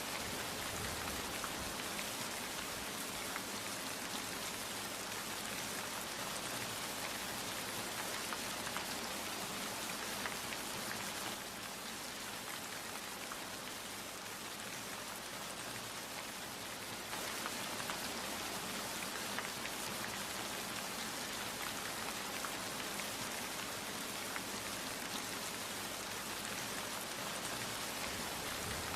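Steady rain falling, with many separate drops pattering through the hiss; it eases a little for about six seconds around the middle, then comes back to its former strength.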